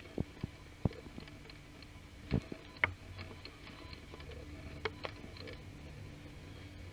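Inside a train coach: a steady low rumble with scattered, irregular clicks and knocks, the rattles of the carriage fittings.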